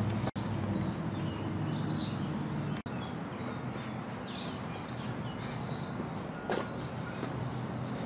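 Small birds chirping in quick short calls again and again over a steady low outdoor background rumble. The sound cuts out for an instant twice in the first three seconds.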